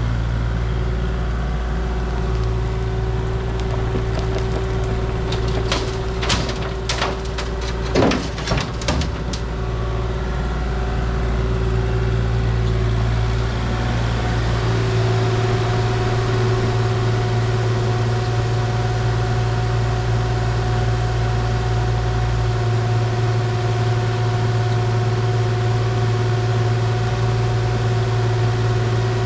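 Engine of heavy equipment loading a dump truck with fill, running steadily, with a cluster of knocks and clatter about a quarter of the way in.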